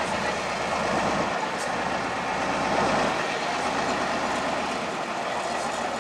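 Heavy off-road trial truck's diesel engine running, a dense steady noise with no distinct knocks or changes.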